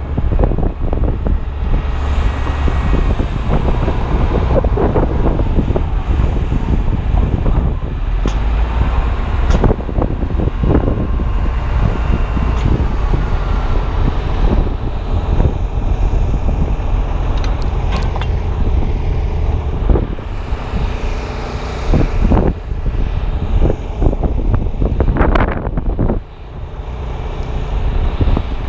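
Strong wind buffeting a GoPro Hero 2's microphone in a steady low rumble, with scattered sharp knocks throughout.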